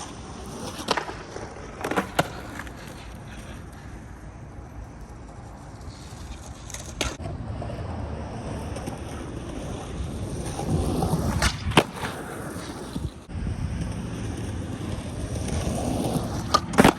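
Skateboard wheels rolling with a low rumble that grows louder in the second half, broken by several sharp clacks of the board hitting the ground, the loudest about twelve seconds in.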